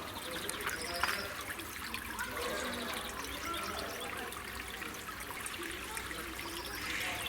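Water trickling steadily, with small birds chirping now and then and a single click about a second in.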